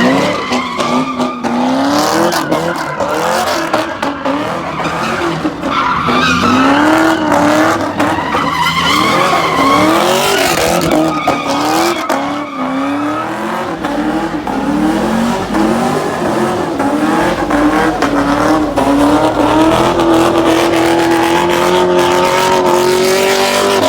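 A car engine revving hard, its pitch swinging up and down again and again, over the hiss of tyres spinning and squealing on pavement. Near the end the engine is held at steady high revs, and the sound cuts off abruptly.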